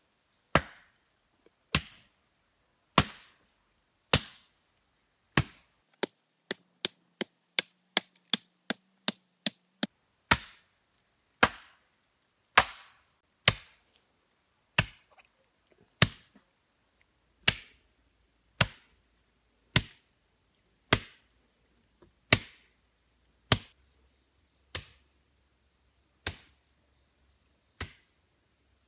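An axe chopping wood in steady single strokes about once a second, with a quicker run of lighter chops for a few seconds about a quarter of the way through.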